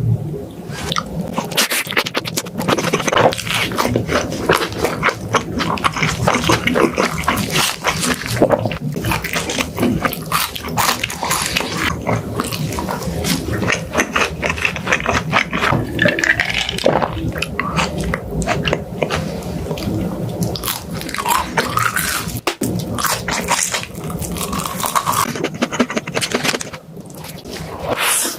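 Close-miked eating sounds: a person biting and chewing food, with a dense run of crunchy clicks and wet mouth noises.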